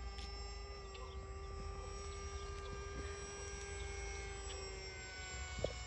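Steady hum of an RC model airplane's electric motor and propeller in flight, several tones held together with a slight drift in pitch.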